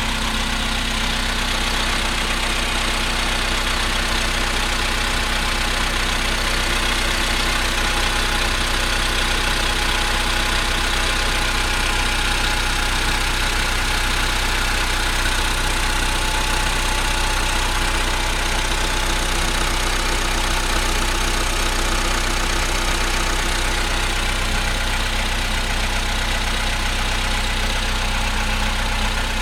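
Volkswagen Polo Sedan engine idling steadily after a cold start, recorded for the knocking it makes when cold.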